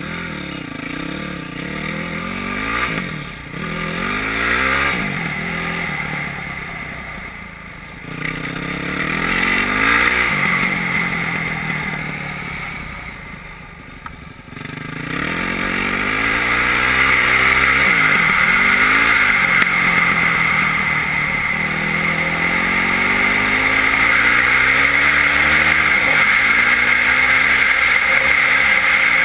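Yamaha WR450F single-cylinder four-stroke enduro bike with an Akrapovič exhaust, ridden hard: engine revving up and falling back as the throttle opens and closes and the gears change, easing off twice in the first half, then running steadily at speed for the second half.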